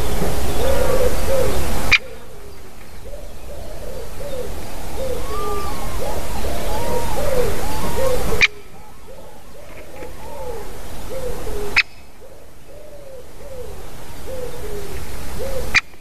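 A bird calling over and over in short, low notes that rise and fall, about one or two a second, with a few higher notes among them. Underneath, a hiss builds up and then cuts off with a click every few seconds.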